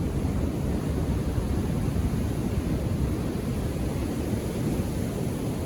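Ocean surf rumbling steadily, with wind buffeting the microphone.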